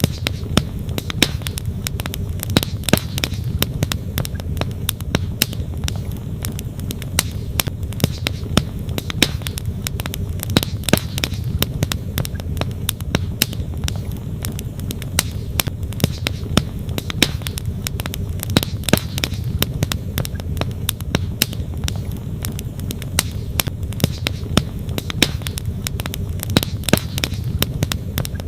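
Wood campfire crackling with frequent sharp, irregular pops, over the steady low rush of a flowing creek.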